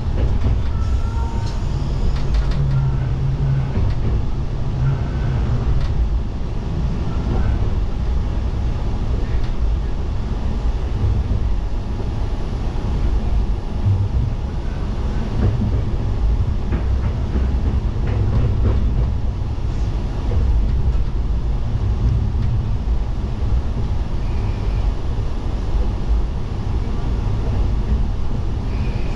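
Tsugaru Railway diesel railcar running along the line, heard from inside the car at the cab end: a steady low rumble of the engine and the wheels on the rails.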